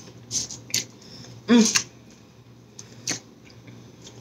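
Close-up chewing and wet mouth clicks from someone eating a chili cheese coney dog, a few separate smacks with a short 'mm' about one and a half seconds in.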